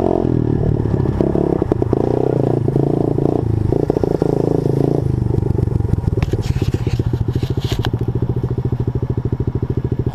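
A 50cc pit bike's small single-cylinder engine running under varying throttle, then dropping at about the halfway point to an even, steady idle. A few light rattles come just after it settles.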